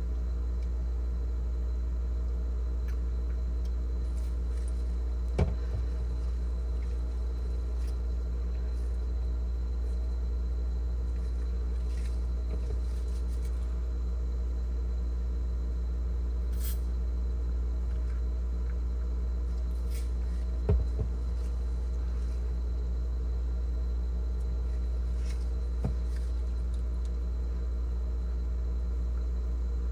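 Refrigerator evaporator fan motor humming steadily while powered, straining to turn because the fan is seized and only turning slowly. Three faint clicks come about 5, 21 and 26 seconds in.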